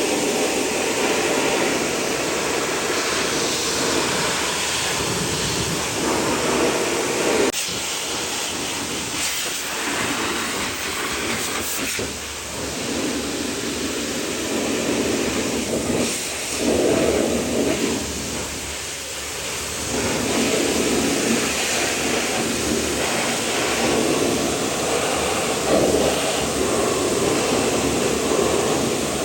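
Pressure washer spraying water against a truck: a continuous rushing spray that swells and eases a few times, dipping briefly about twelve seconds in and again around nineteen seconds.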